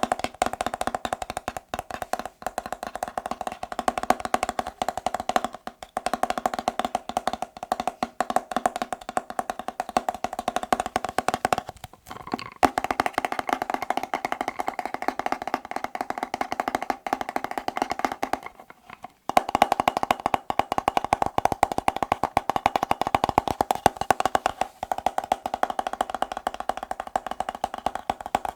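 Very fast, continuous fingertip tapping on a hard, hollow object that rings with a steady tone. The tapping stops briefly about twelve seconds in and again about nineteen seconds in.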